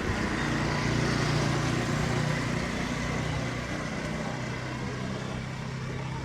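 A motor vehicle engine running steadily with a low hum, swelling about a second in and slowly easing off after that.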